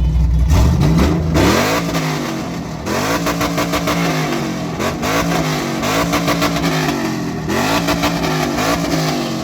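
Car engine idling, then revved hard about half a second in and blipped up and down repeatedly, each rev climbing in pitch, holding briefly and dropping back.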